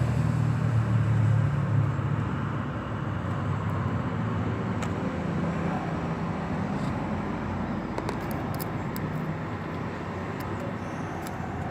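A car engine running with a low hum that is strongest at first and eases off over the first few seconds, over steady background noise, with a few light clicks between about eight and nine seconds in.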